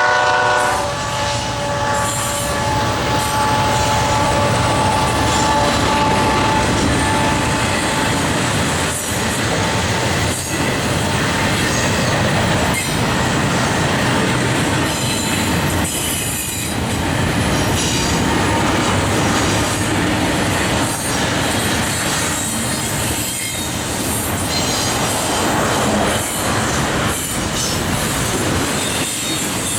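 Union Pacific intermodal freight train rolling past, a loud steady rumble and rattle of wheels on rail. A high steady wheel squeal runs for the first several seconds and then fades into the rumble; a horn chord cuts off right at the start.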